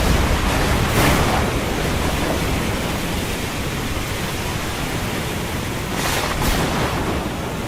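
Stormy sea: a steady rush of wind and breaking waves, with louder crashes of water about a second in and again around six seconds in.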